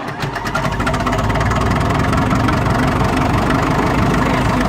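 The 1956 International TD6 crawler's engine catching on a cold start in its gasoline starting mode, lightly choked. It fires with rapid even ticks as it comes up to speed, then settles into a steady run within about a second.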